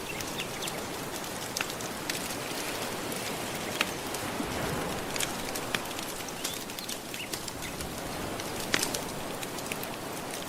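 Crackling wood fire with irregular sharp pops and snaps over the steady wash of soft ocean waves.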